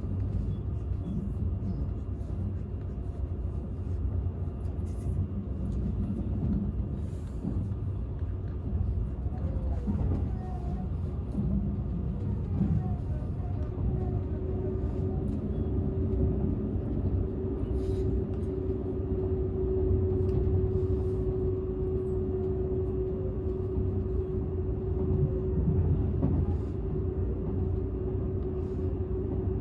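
Inside the cabin of a Seibu 001 series Laview limited express, riding in its unpowered Tc control car: the steady low running rumble of the train on the rails, with occasional faint clicks. A steady hum joins about halfway through.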